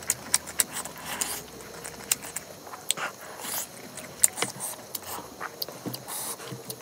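Close-up mouth sounds of eating: wet chewing and lip smacks heard as a string of sharp, irregular clicks, the loudest about four seconds in. Rice and curry squish as they are kneaded together by hand on the plate.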